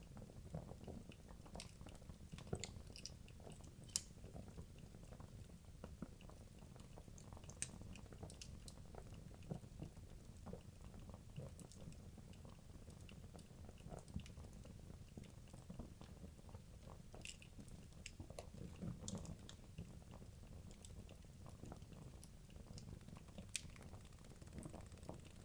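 Wood logs burning in a fireplace: a low steady rumble of the flames with frequent small sharp crackles and pops from the wood, a few louder snaps scattered through.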